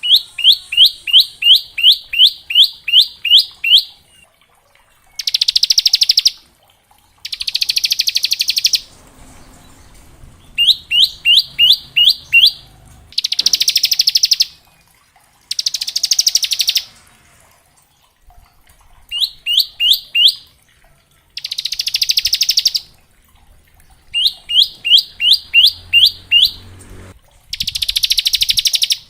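Bar-winged prinia (ciblek) singing: runs of sharp down-slurred chirps, about three a second, alternating with dense rapid trill bursts of a second or so, the rattling 'ngebren' phrase.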